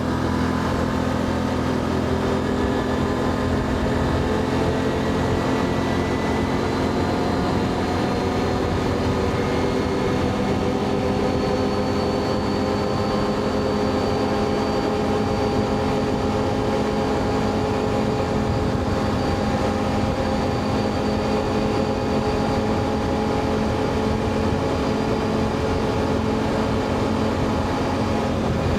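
ATV engine running steadily while riding, its pitch climbing slowly over the first half and then holding level.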